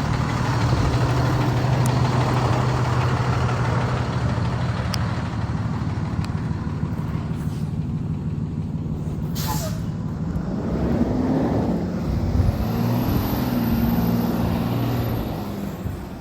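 2023 IC CE school bus running while driving: steady engine hum with road noise. About nine and a half seconds in there is a short hiss of air from the air brakes.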